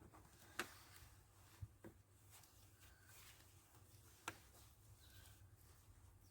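Near silence with a faint low hum, broken by three short, sharp clicks or taps spread over a few seconds.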